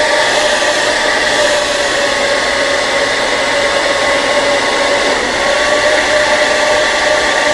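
Hair dryer running steadily, a constant blowing rush with a steady motor whine.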